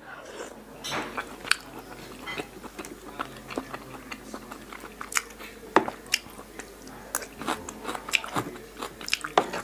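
Close-miked chewing of a mouthful of spicy pork sausage salad with crisp lettuce, with irregular crunches and sharp clicks, a few of them louder.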